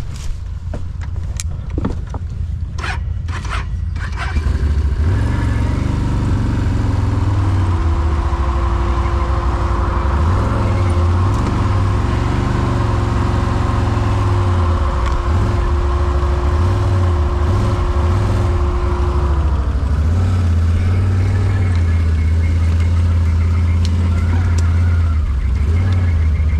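An ATV engine starts running loudly about five seconds in, after a few knocks and clicks. A steady whine sits over the engine for about twelve seconds and then falls away, while the engine keeps running.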